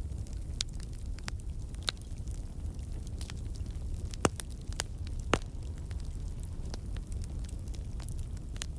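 Wood campfire burning with a steady low rumble and scattered sharp crackles and pops of the logs, two louder pops about four and five seconds in.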